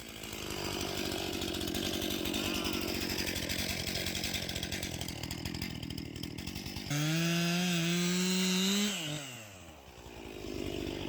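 Stihl MS 261 C two-stroke chainsaw cutting a log under load. About seven seconds in it revs freely at a higher, steady pitch, drops back toward idle, and revs up again near the end.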